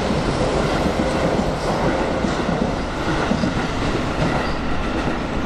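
Keio 7000 series electric train running, a loud steady rumble of wheels on rail.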